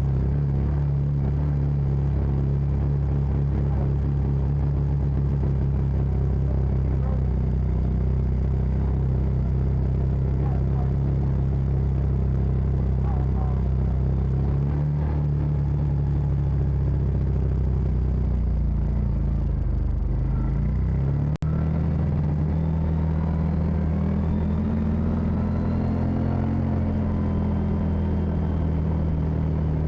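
Side-by-side UTV engine running steadily while driving a trail, with a heavy low rumble. It breaks off for an instant about two-thirds through, then its pitch climbs gradually over several seconds as it speeds up.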